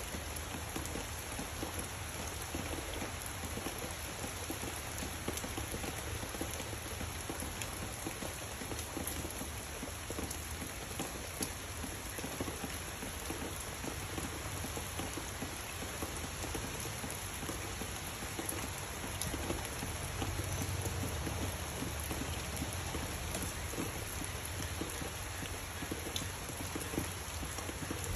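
Steady rain falling on dense tree foliage, an even hiss of drops. A low rumble swells about twenty seconds in and again near the end.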